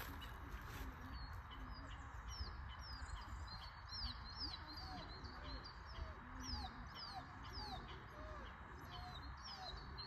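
Small birds chirping repeatedly in short, high, falling notes, with fainter lower calls among them, over a steady low rumble.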